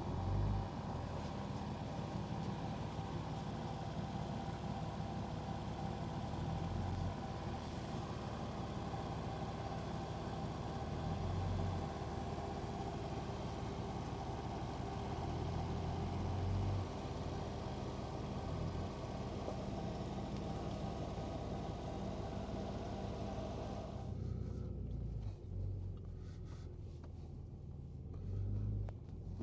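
A vehicle engine running steadily, swelling louder several times as it is driven and manoeuvred. About 24 s in much of its higher sound drops away suddenly, leaving a lower rumble with a couple more surges.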